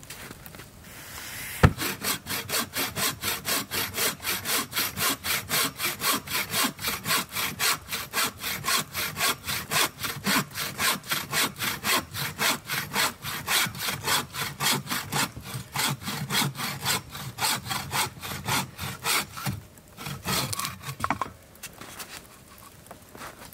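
Hand saw cutting through wood with quick, even back-and-forth strokes, about two to three a second, after a sharp knock at the start. The strokes stop near the end, after a short pause and a few last strokes.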